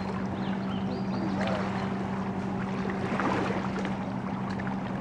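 A steady low hum over outdoor wind and water noise, with faint voices in the background.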